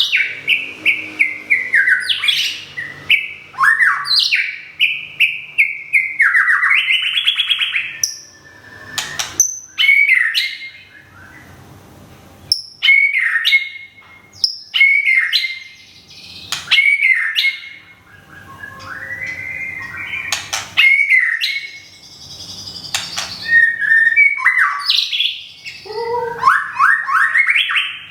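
White-rumped shama singing: a run of loud, varied whistled phrases, some sliding up or down in pitch, mixed with sharp clicks and separated by a few short pauses.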